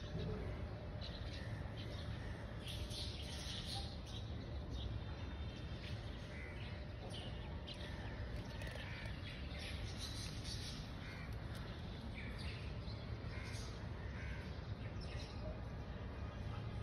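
Birds calling in scattered short calls over a steady low background rumble.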